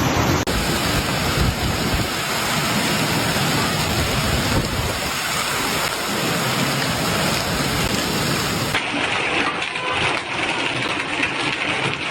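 Heavy rain pouring down in a storm, a steady loud hiss, changing abruptly twice as the recording switches to another downpour.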